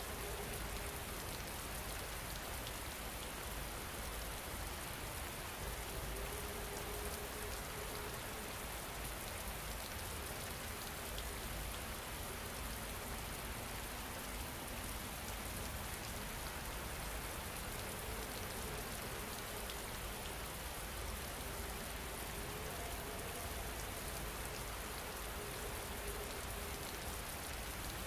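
Steady rain falling, an even, unbroken patter and hiss.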